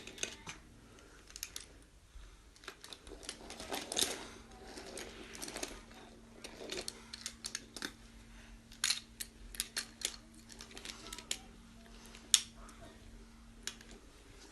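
Toy train being played with: irregular plastic clicks and knocks, with a faint steady hum that starts about three seconds in and stops just before the end.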